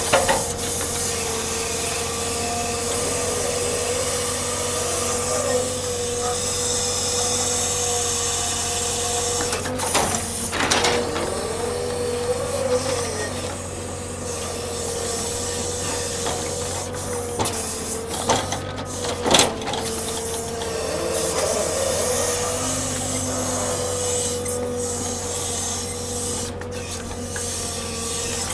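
Hydraulic machinery unloading a log truck, running with a steady whine and a hiss, with a few sharp knocks of the gear or logs about ten seconds in and twice near twenty seconds.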